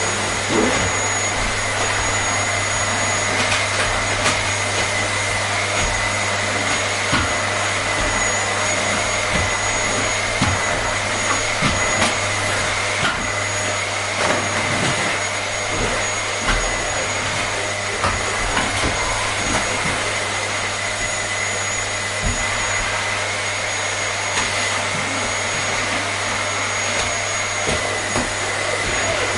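Vacuum cleaner running steadily: a constant rushing hiss of air with a steady high whine and a low hum underneath, and a few faint ticks scattered through.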